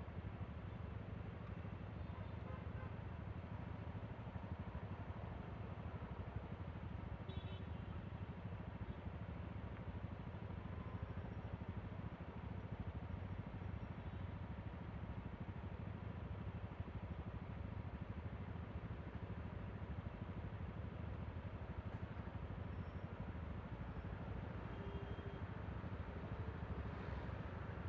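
Yamaha Aerox V3 scooter's 155 cc single-cylinder engine running steadily while under way, mixed with wind and road noise.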